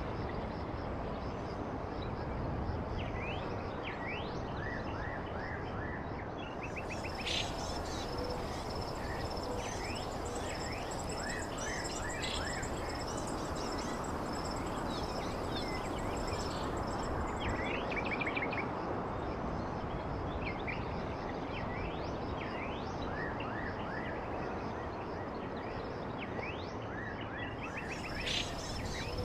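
Several birds chirping in short, quick notes over a steady background hiss. A thin, high, steady buzz joins about seven seconds in, drops out about halfway, and returns near the end.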